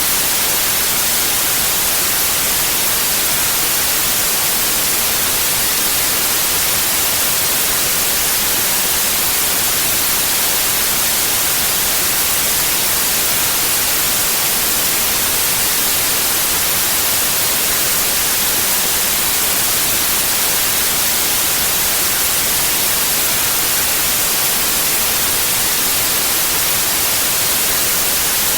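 Steady white noise: an even, unbroken hiss, bright and high-weighted, that holds a constant level.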